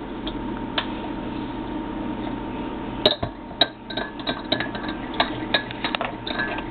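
A teaspoon clinking against a coffee cup while stirring in sugar: rapid, irregular light clinks starting about halfway through, over a steady background hum.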